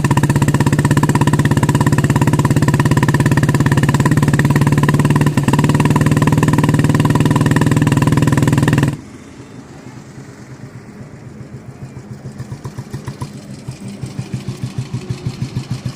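Single-cylinder four-stroke engine of a 1976 Royal Enfield Bullet running with its pulsing exhaust beat. About nine seconds in the sound drops sharply, then the beat grows steadily louder again.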